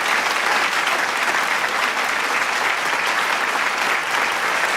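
Large crowd clapping continuously, a dense steady wash of handclaps.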